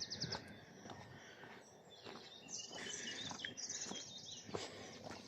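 Small birds chirping and twittering faintly, most busily from the middle of the stretch, with a few faint soft knocks in between.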